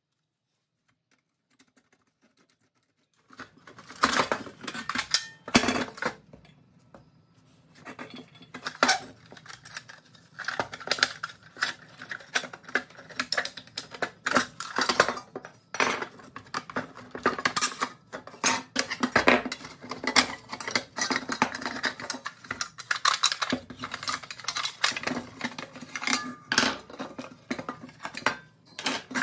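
Rusty pressed-steel toy truck parts clinking and clanking as they are handled and taken apart, in quick irregular knocks and rattles that start about three seconds in.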